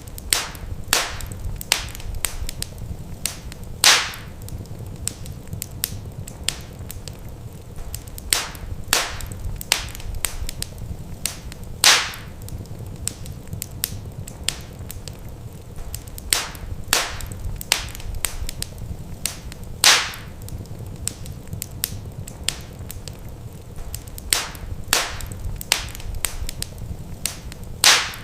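Wood fire crackling in a fireplace: irregular sharp pops and snaps over a steady low rumble of the flames, with a few louder pops standing out.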